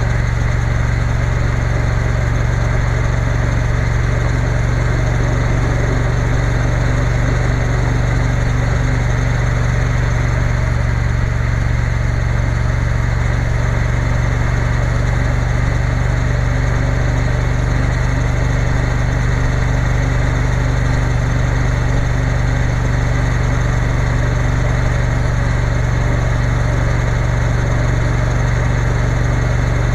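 Triumph Bonneville T120's parallel-twin engine running at steady revs: a low, even drone with no change in pitch or level.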